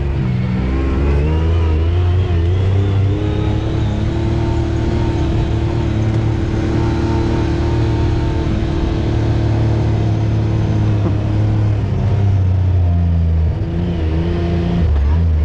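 Side-by-side UTV engine running under throttle, its pitch rising and falling a few times, then holding steady for several seconds before dipping again near the end.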